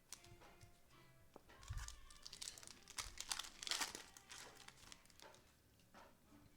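Foil trading-card pack wrapper being torn open and crinkled, a cluster of crackling rustles that is loudest about three and a half seconds in.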